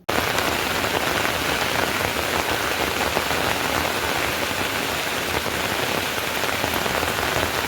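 Heavy rain falling, a loud, steady, dense hiss that starts abruptly.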